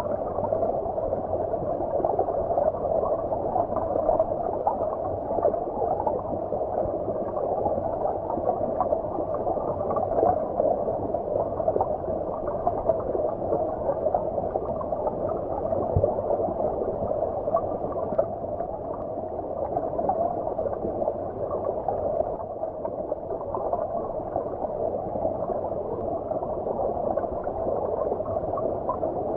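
Flowing stream water heard underwater: a steady, muffled gurgle with no high hiss.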